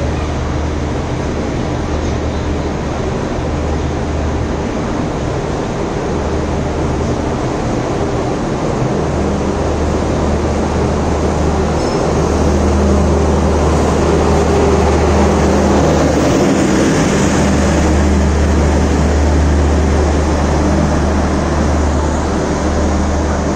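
Indian Railways passenger train coaches rolling past a station platform, a steady, loud rumble of wheels and running gear that swells a little midway as the train moves off down the line.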